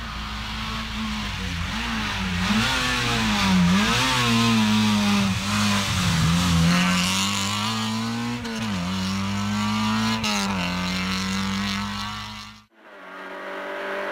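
Rally car engine revving hard, its pitch climbing and dropping again and again through gear changes and tight corners. The sound cuts off suddenly near the end.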